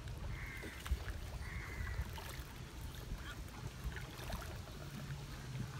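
Two short bird calls, about half a second and a second and a half in, over a steady low rumble of wind and water-side ambience.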